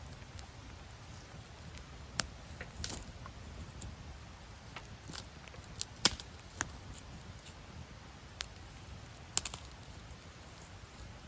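Wood fire crackling in a fire pit: sparse, irregular sharp pops, a few louder ones near the middle, over a low steady rumble.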